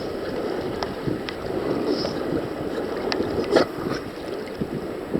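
Shallow sea water sloshing and lapping, with a few small splashes, and wind rumbling on the microphone.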